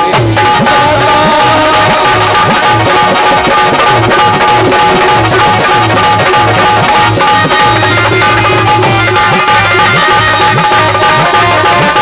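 Instrumental passage of Indian folk music: a hand drum plays a steady, fast rhythm with bass strokes that bend upward in pitch, under a held melody on a sustained-tone instrument.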